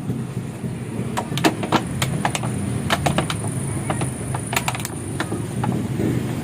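Road vehicle noise: a steady low engine and road rumble, with many short sharp clicks or rattles scattered through the middle.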